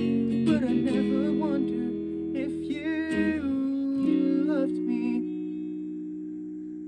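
Acoustic guitar chords under a wordless sung melody, the song's close. About five seconds in, the voice stops and a final guitar chord rings on, slowly fading away.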